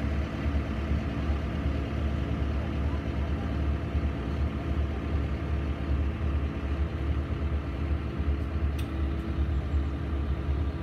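Mini excavator's engine running steadily with a deep, even hum.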